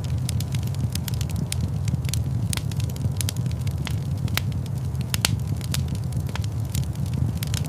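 Wood fire crackling in a fireplace: a steady low rumble of the flames under frequent, irregular sharp pops and snaps.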